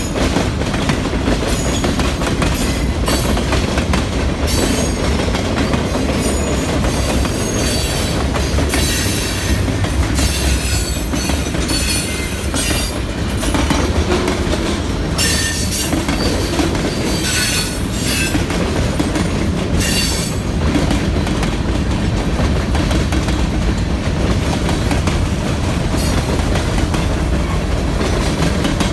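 Freight train cars rolling past, a steady loud rumble with wheels clacking over the rail and frequent brief high-pitched wheel squeals.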